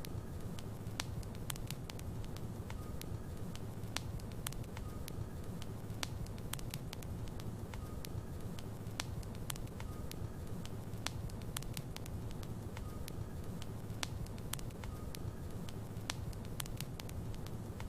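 Logs burning in a fireplace, crackling with frequent sharp, irregular pops over a steady low rumble of flame.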